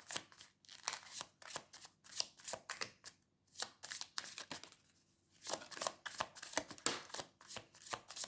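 A deck of tarot cards being shuffled by hand: quick, irregular papery flicks and snaps of the cards, with two brief pauses.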